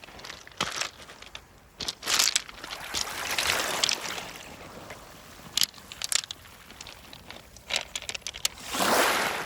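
Crunching and sharp clicks of beach pebbles underfoot and knocking together, irregular, with two longer swells of hissing rush, one about two to four seconds in and a louder one near the end.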